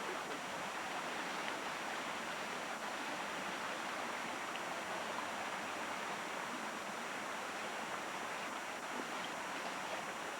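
Steady rushing noise that holds an even level throughout, with no distinct events.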